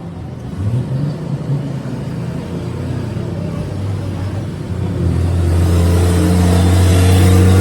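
An engine running with a steady low hum, growing louder and fuller about five seconds in.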